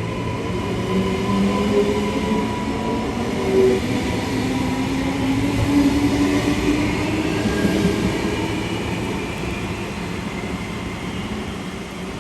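Electric suburban train running on the track: a steady rumble with a motor whine that slowly shifts in pitch, easing off gradually over the last few seconds.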